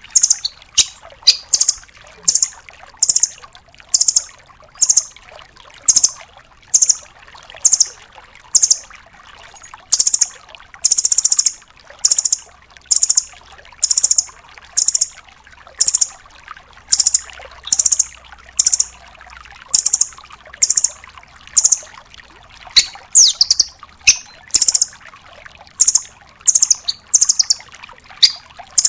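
Velvet-fronted nuthatch calling in a fast, loud series of short, high-pitched notes, about one burst a second, with a few sharp falling notes about three quarters of the way through.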